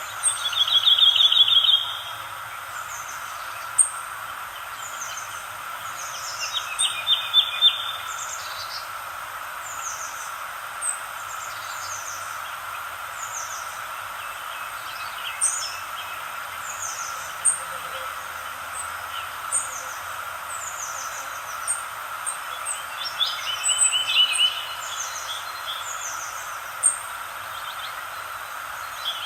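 Several songbirds singing: many short, high chirps throughout, with a louder, quick trilled phrase of repeated notes a few times, over a steady background hiss.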